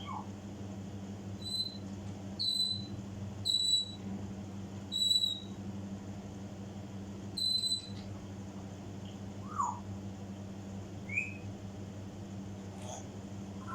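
African grey parrot whistling: five short, high whistles with a slight downward slide in the first eight seconds, then two softer gliding chirps, one falling and one rising.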